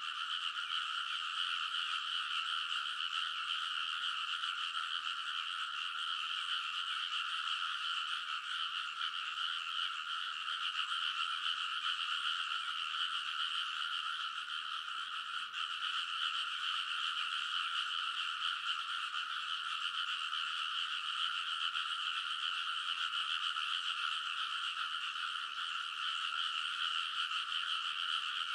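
A dense chorus of many frogs calling together in a flooded rice paddy. The calls merge into one unbroken, steady din in two bands of pitch, a lower and a higher one.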